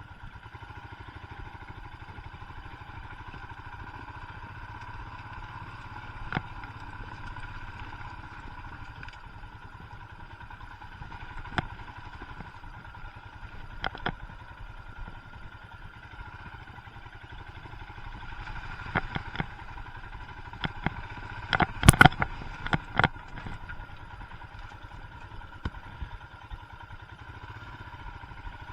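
Royal Enfield Himalayan's single-cylinder engine running steadily at low revs, with scattered knocks and clatters and a cluster of the loudest ones about three-quarters of the way through.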